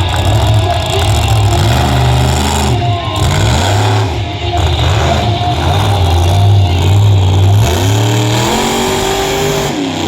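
Monster truck engine revving hard, its pitch repeatedly climbing and dropping as the throttle is worked, with a steep rise about three seconds in and another near the end.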